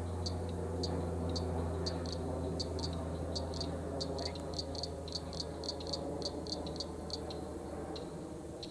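A series of short, high clicking calls from a small calling animal, repeated a few times a second and quickening toward the middle, then thinning out. Under it runs a steady low hum.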